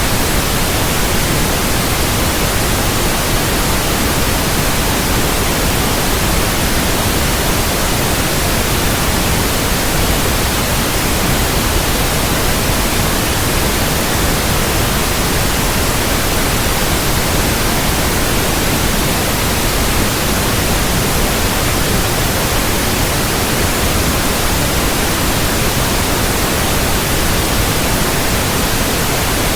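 Steady white noise, an even hiss across all pitches that does not change, played as a sleep aid for babies.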